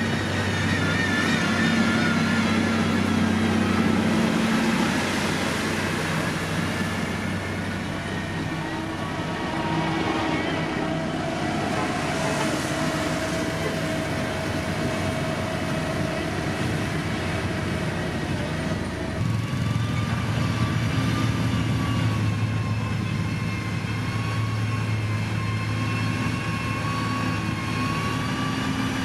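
Diesel engines of heavy road-construction machinery running under load, their pitch shifting as the machines work, with a change in the engine note about two-thirds of the way through.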